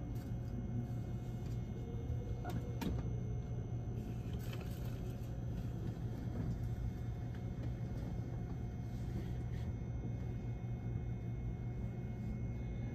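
Steady low electrical hum and rumble of a limited-express train standing at a station, with a couple of faint clicks about two and a half seconds in.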